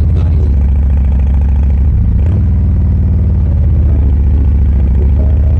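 Harley-Davidson Road Glide Limited's V-twin engine running at low, steady revs with a deep, pulsing note, shifting briefly a little over two seconds in.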